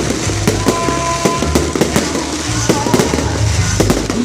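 Fireworks display: a rapid series of sharp bangs and cracks, several a second, over the show's accompanying music with a steady bass line.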